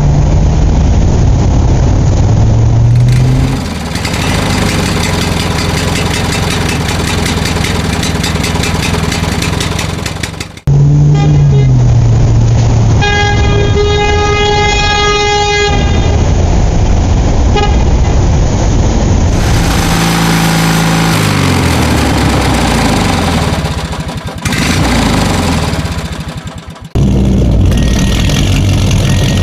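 Vehicle sound effects: motor-vehicle engines running and revving, with a horn blast of about three seconds in the middle. The sound changes abruptly a few times, as if spliced.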